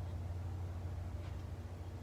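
Furnace blower's squirrel-cage wheel turning freely on its shaft after being spun by hand, a low steady rumble that slowly fades as it coasts down, now that the wheel is centred and no longer jams.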